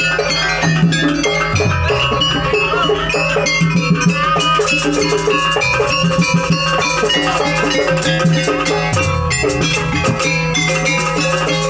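Jaranan ensemble music: drums and bronze gongs or metallophones keeping a steady beat under a melody that bends in pitch.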